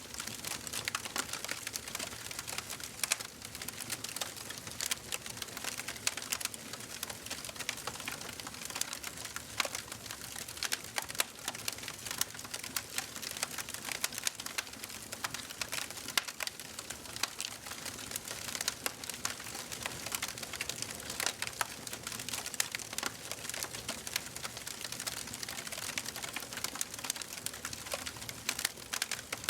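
Fire burning in a fireplace, crackling: irregular sharp pops and snaps, several a second, over a soft steady hiss.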